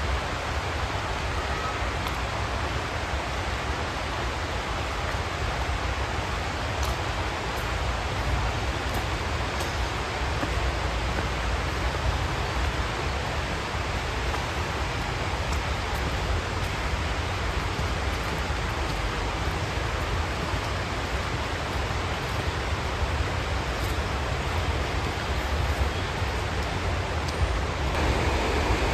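Steady rain hiss outdoors, with a few faint drop ticks. Near the end a lower rumble swells in underneath.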